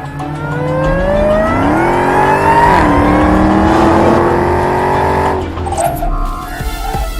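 Car engine accelerating hard: its pitch rises, drops at a gear upshift about three seconds in, pulls on while climbing slightly, then fades away near the end.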